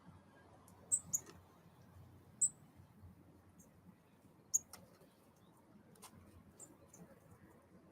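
A few short, sharp high-pitched ticks or chips from small birds at a feeder, two close together about a second in, then single ones around two and a half and four and a half seconds, over a faint steady hiss.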